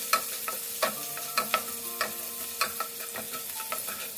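Oil sizzling steadily under crushed shallots, green chillies and ginger-garlic as they sauté in a nonstick pan, with irregular knocks and scrapes of a wooden spatula stirring them, about two a second.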